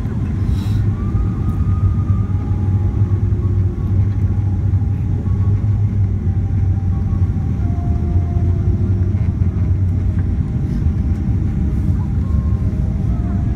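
Steady low rumble of a Boeing 777's engines and airframe as heard inside the cabin, with faint whining tones that drift slightly in pitch.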